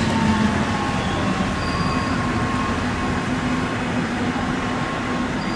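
A train running through a railway station: a steady rumble with a faint, even whine.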